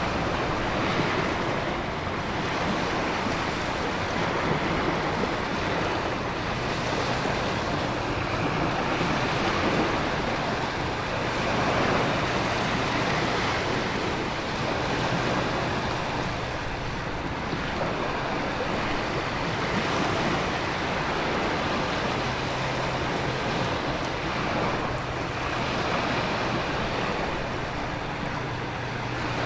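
Storm ambience: a continuous rush of heavy rain and wind over ocean surf, swelling and easing every few seconds as waves roll in.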